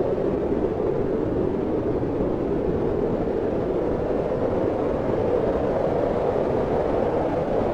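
Steady wind blowing, an even rushing noise with a low hollow tone and no gusts or breaks.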